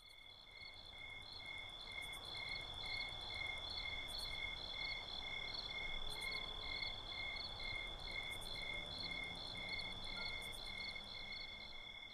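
Crickets chirping in a night-time ambience: a steady high trill with a chirp about twice a second, over a low rumble. It swells in over the first couple of seconds.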